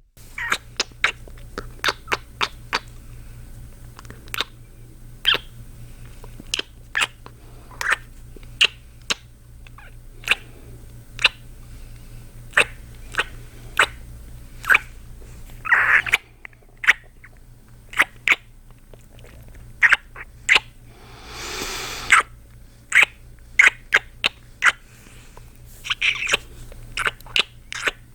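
Close-miked kissing sounds made by a man's lips: a long run of short wet smacks at irregular spacing, some in quick pairs. About three quarters of the way through there is one breath of about a second.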